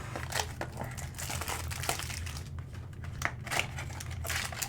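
Trading-card packaging being handled and opened: irregular crinkling rustles and small sharp ticks, over a steady low hum.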